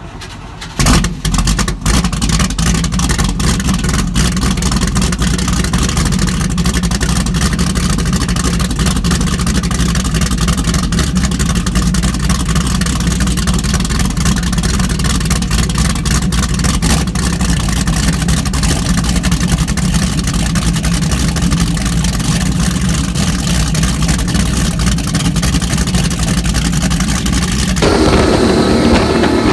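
Supercharged engines of a 1986 38-foot Cigarette race boat, starting loud and abruptly about a second in, then running steadily with a deep, heavy note. Near the end the sound changes and the rush of wind joins the engine.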